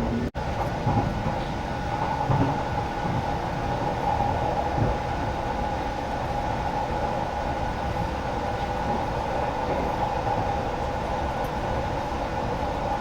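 Steady running noise of a sleeper-train passenger car at speed, heard from inside: a continuous rumble with a humming note and a few low knocks from the wheels, starting abruptly.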